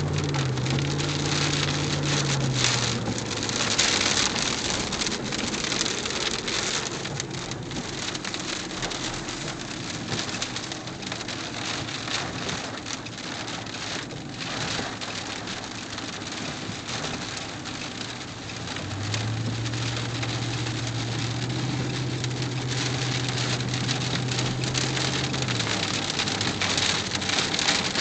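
Heavy rain pouring down steadily during a tornado-producing storm. A low steady hum sounds under it for the first couple of seconds, and again for about six seconds starting around two-thirds of the way in.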